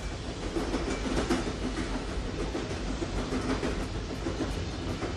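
Runaway diesel freight train running fast on the rails: a steady low rumble with rattling clatter.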